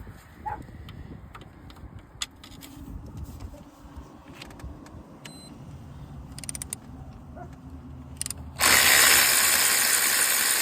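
Hand tools clicking and clinking on metal engine parts. About eight and a half seconds in, a loud steady hiss starts suddenly and keeps going.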